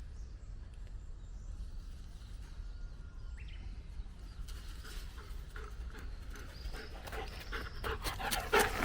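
Footsteps on the forest floor over a low steady rumble. The steps start about halfway through and grow louder and more frequent toward the end.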